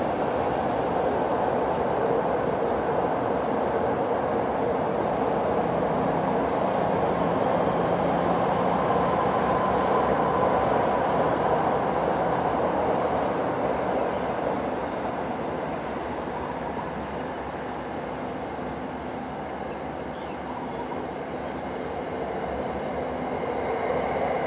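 Steady train noise: an Alstom AD24C diesel-electric locomotive hauling a container freight train, with a low engine hum, mixed with electric Red Line commuter trains running close by. The noise eases a little past the middle, then swells again near the end.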